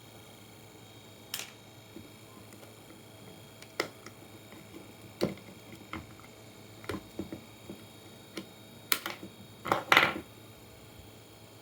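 Scattered light clicks and knocks of tools and parts being handled during a power-supply teardown, irregularly spaced, with a louder cluster of knocks near the end.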